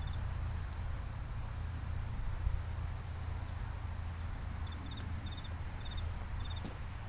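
Insects chirping in short repeated clusters, mostly in the second half, over a steady low rumble.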